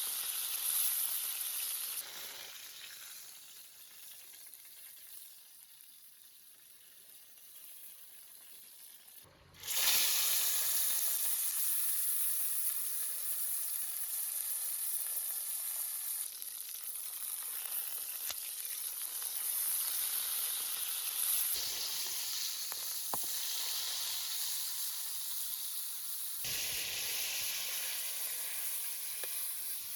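Food sizzling as it fries in hot fat, a steady hiss made of several spliced stretches: fainter for several seconds, then louder from about a third of the way in, with sudden changes in tone where shots are cut together.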